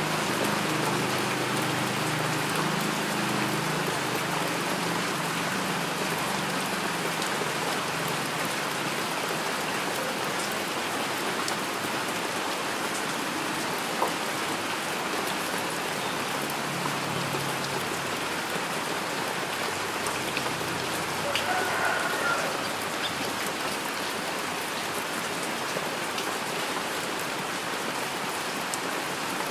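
Steady heavy rain falling and pattering on surfaces, an even hiss of drops. A low rumble sits under it in the first several seconds, and a single sharp tap stands out about halfway through.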